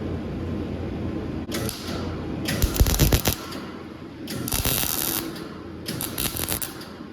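Arc welding in short bursts: the arc crackles and sputters for about a second at a time, four times, as tack welds are laid on sheet metal. A few low thumps come about three seconds in.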